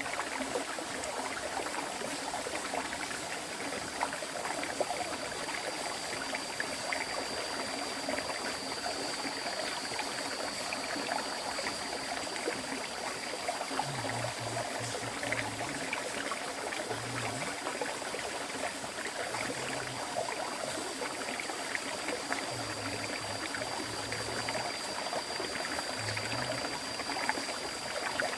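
River stream flowing steadily: an even rush of water with trickling, over a thin steady high tone.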